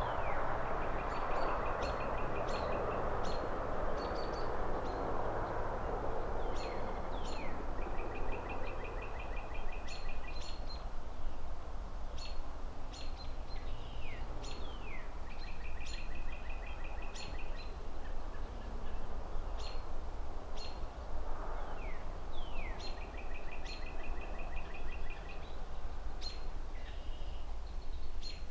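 Birds chirping in a city soundscape: rapid trills and short downward-sliding calls repeating every several seconds over a steady low traffic rumble. A broad rushing noise, passing traffic or leaves in wind, fades away over the first few seconds and swells again briefly about three-quarters of the way through.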